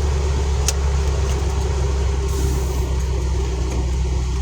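Steady low engine and road rumble heard from inside a moving car, with a sharp click about two-thirds of a second in.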